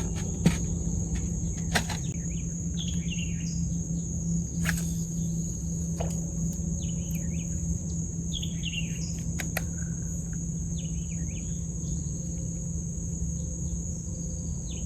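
Steady high-pitched insect chorus of crickets, with birds chirping in short calls several times and a few scattered sharp ticks.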